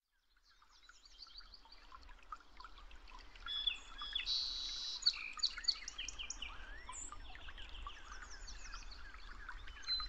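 Several birds singing and chirping together, a dense mix of short chirps, trills and a few rising whistles, fading in over the first couple of seconds.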